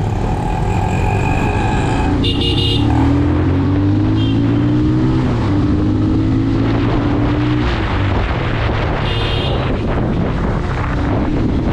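Bajaj Pulsar 220 motorcycle's single-cylinder engine pulling through city traffic, its pitch rising and dropping as it accelerates and changes gear, under constant wind rush. Short vehicle horn beeps sound several times.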